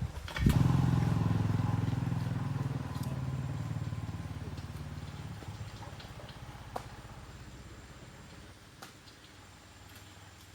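Motorbike engine starting up suddenly, then running with a steady pitch while it fades away gradually over several seconds, as a bike pulling off and moving away would. A few light metallic clicks come near the end.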